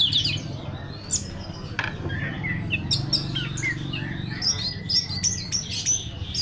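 Anis thrush singing a fast, varied song of sharp chirps and downward-sweeping whistles, over a low steady hum.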